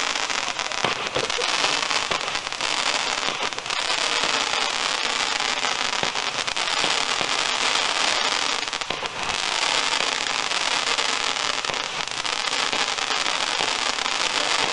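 Consumer fireworks rising on sparking, crackling tails: a dense, steady crackle made of many small pops.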